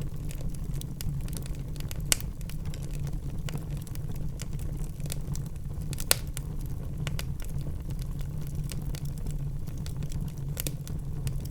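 Wood fire burning in a fireplace: a steady low rumble with scattered crackles and pops, two sharper pops about two and six seconds in.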